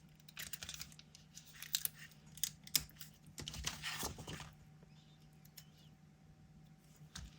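Small irregular clicks and rustles of stickers and planner paper being handled and pressed down, busy for about the first four seconds and then dying away over a faint steady hum.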